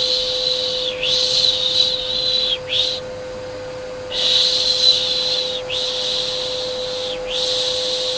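Rhythmic shushing ('piş piş'), a soft breathy 'shhh' repeated every second or so with a short pause about three seconds in, over the steady hum of a vacuum cleaner: white-noise sounds used to soothe a baby to sleep.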